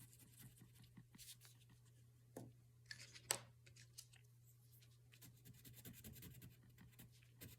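Faint scratching of crayon strokes on paper, with a few soft taps around the middle, over a low steady hum.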